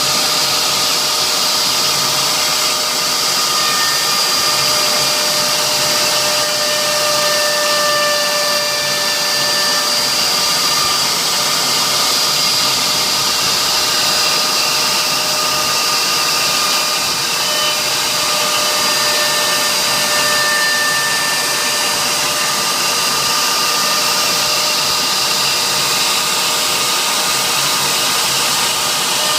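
CNC router spindle running steadily while it engraves a wooden sign, a high whine made of several tones over a continuous rushing noise, the pitch wavering slightly as the cut goes on.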